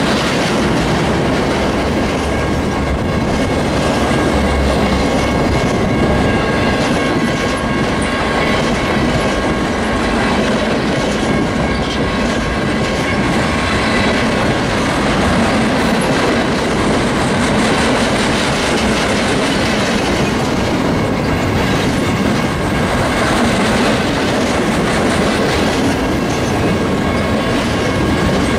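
Loaded flatcars of a freight train rolling steadily past at close range, a continuous rumble with the wheels clattering over the rails.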